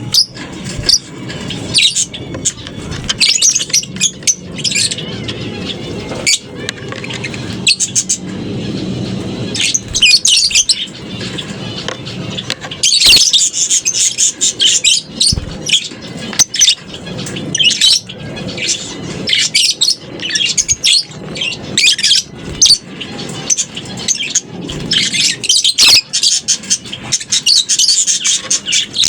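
A colony of lovebirds calling in an aviary: many short, high-pitched chirps and shrill chatters overlapping continuously, with frequent sharp, abrupt calls.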